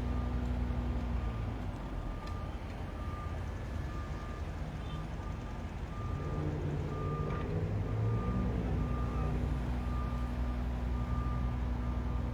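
Construction vehicle's reversing alarm beeping steadily, a little more than one beep a second, over the low rumble of a heavy engine. The engine rumble drops back after the first second or so and builds up again about two-thirds of the way through.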